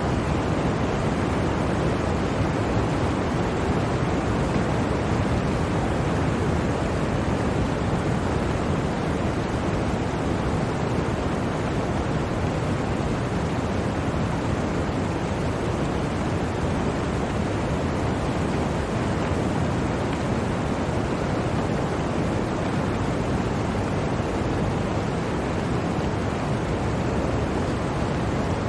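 Blizzard wind: a steady, even rushing noise with no distinct gusts or breaks.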